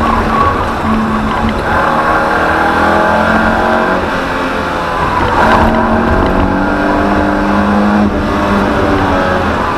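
BMW E30 318i's M10B18 1.8-litre four-cylinder engine, heard from inside the cabin, running hard on track with its pitch rising and falling as the driver works the throttle and gears, with a brief break about five and a half seconds in.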